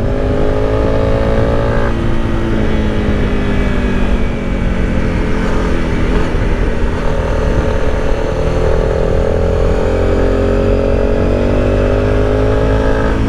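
Motorcycle engine running under way while being ridden. Its pitch drops sharply at a gear change about two seconds in, then climbs slowly as it pulls.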